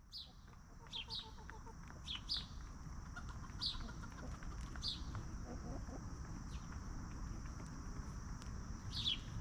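Bird chirps: short, high calls that fall in pitch, about nine of them at uneven intervals, over a steady high-pitched hum and a low rumble.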